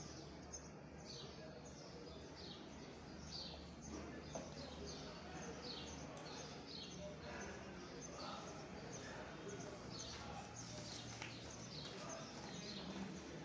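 Small birds chirping in the background, many short falling chirps about two a second, over a faint steady low hum.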